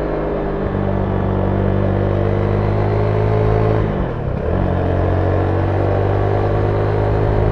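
Zontes 310V motorcycle's single-cylinder engine running through its stock exhaust under steady throttle while riding. About four seconds in, the engine note dips sharply and picks up again.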